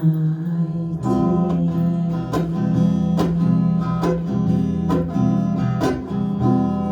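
Acoustic guitar strumming chords of a song after the last sung line, with sharp strokes about once a second.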